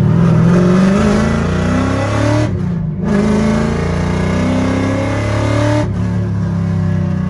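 Car engine revving, its pitch climbing twice and breaking off sharply about two and a half seconds in and again near six seconds, then running steadily at a lower pitch.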